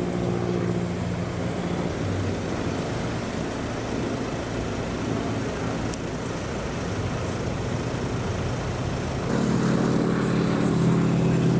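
Piston engine of a propeller aircraft running with a steady droning hum, growing louder about nine seconds in.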